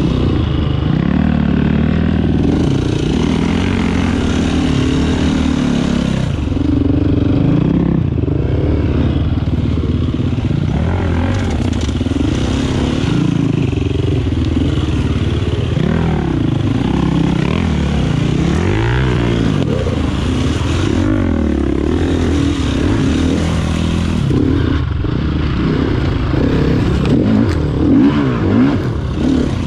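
GAS GAS EC 350F four-stroke single-cylinder enduro bike running through a slow trail section, its engine revs rising and falling constantly as the throttle is worked.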